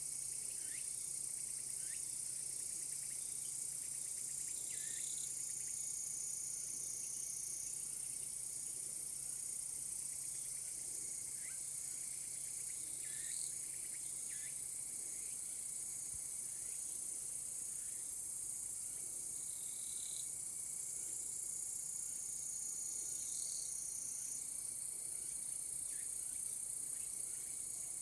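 Chorus of cicadas droning steadily at a high pitch, with short faint chirps scattered through it.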